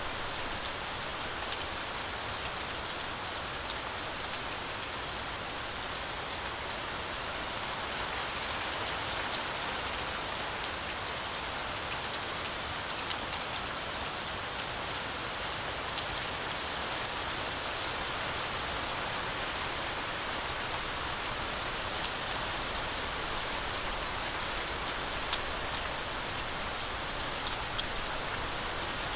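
Heavy rain falling steadily through a forest canopy, a dense even hiss flecked with the sharp taps of individual drops.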